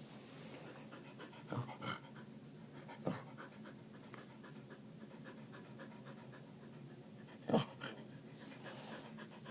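Yorkshire terrier panting rapidly, with a few louder short sounds about one and a half, three and seven and a half seconds in.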